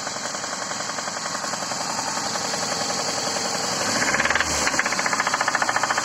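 VAZ-2111 engine running with a fast, regular knock from inside the engine. About four seconds in the engine gets louder and the knocking sharper.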